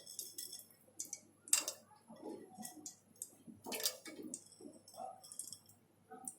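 Faint, scattered clicks and small knocks as whole garam masala spices are dropped into warming oil in a pressure cooker.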